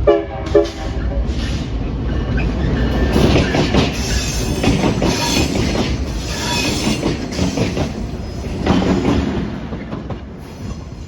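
A train passing close by, its wheels clattering over the rail joints in repeated surges with brief squeals. It fades near the end as the train moves away.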